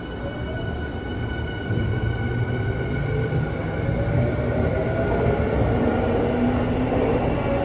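Tokyu 5050 series motor car's VVVF inverter and traction motors whining as the train accelerates. Several steady high tones fade out about five seconds in, while a lower motor whine rises in pitch and the running noise grows louder.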